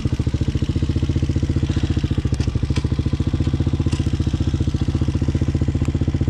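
Hawk 250cc dirt bike's single-cylinder engine running steadily at low revs, its exhaust pulsing evenly with no change in pitch, with a few faint clicks partway through.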